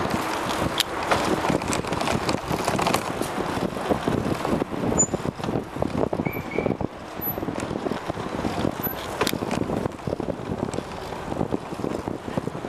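Wind rushing over the microphone of a camera on a fast-moving bicycle, with a dense run of rattles and knocks as the bike rides over city pavement, and traffic noise.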